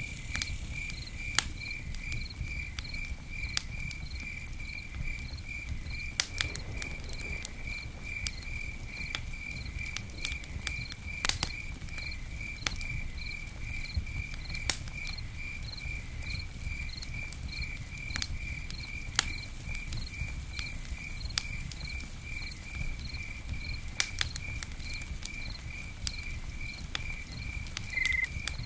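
Campfire crackling with scattered sharp pops over a low steady rumble of burning, while a cricket chirps steadily about three times a second.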